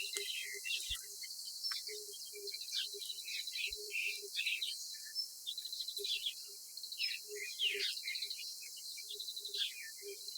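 Small birds chirping, many short, quick calls coming irregularly and overlapping.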